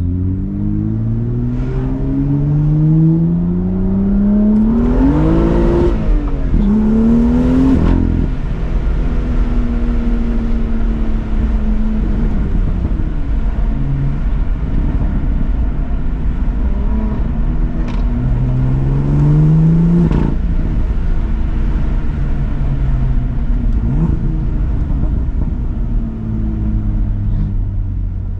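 Car engine accelerating through the gears, its note climbing and dropping back at each shift about six and eight seconds in. It then runs at a steady, low rumble, with another climb and shift near twenty seconds.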